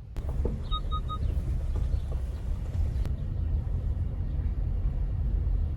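Steady low rumble of a car starting to drive off, heard from inside, with three quick electronic beeps from the car just under a second in.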